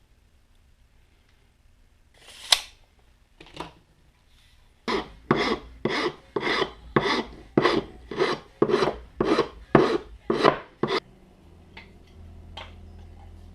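Hand filing: a stroke or two, then about a dozen regular strokes of a file or rasp, roughly two a second, in a steady rhythm. A low steady hum comes in near the end.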